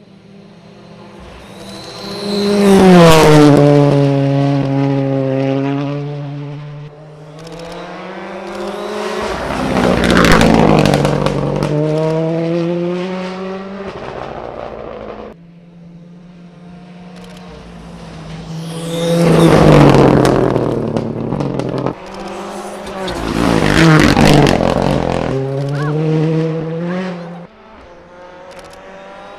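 Rally cars passing one after another at full throttle. Each engine rises as it approaches, peaks as it goes by, and drops in pitch as it pulls away, about four passes in all.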